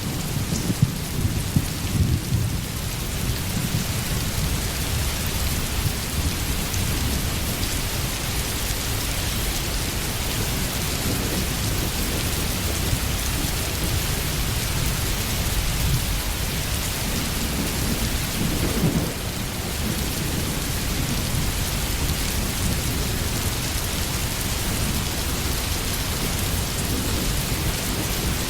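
Steady heavy rain with a low rumble underneath. The rumble swells briefly about two-thirds of the way through.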